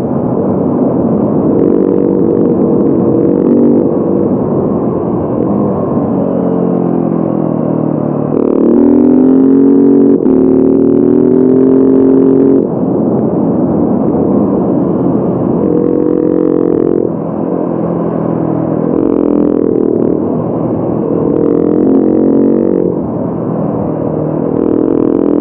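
Motorcycle engine under way, its pitch climbing through each gear and dropping back at the shifts, several times over.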